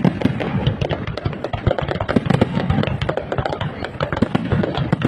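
Dense fireworks barrage: shells bursting in rapid, overlapping bangs and crackles, many a second without a break.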